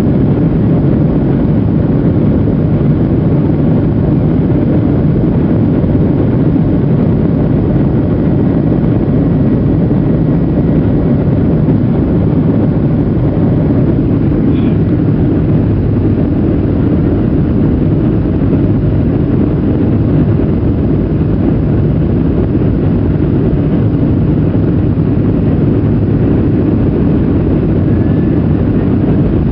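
Boeing 737-800's CFM56 jet engines running at high thrust: a loud, steady jet noise that neither rises nor falls.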